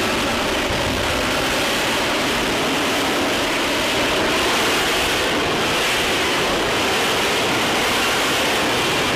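F-35 fighter jet's engine running as a steady rushing noise, holding an even level and pitch throughout.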